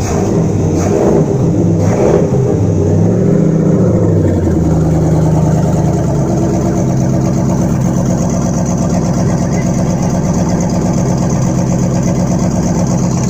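Chevrolet Tahoe V8 engine fitted in a boat, running on its first start after repair: revved up and down several times in the first few seconds, then settling to a steady idle.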